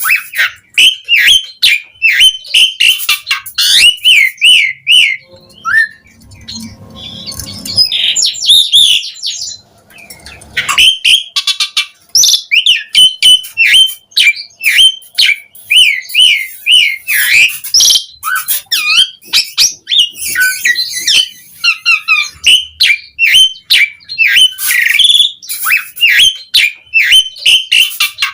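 Asian pied starling (jalak suren) singing nonstop: fast runs of short whistled notes mixed with harsh chattering squawks, with a rougher, scratchier stretch about a third of the way in and a brief pause shortly after.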